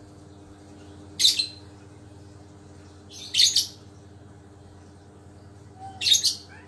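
Lovebird giving three short, shrill calls about two seconds apart, over a faint steady hum.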